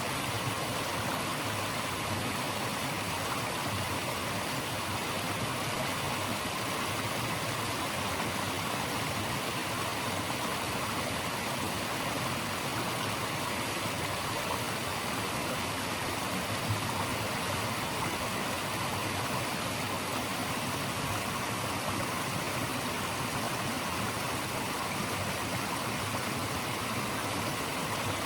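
Flowing water rushing steadily, an even, unbroken hiss with no distinct splashes or changes.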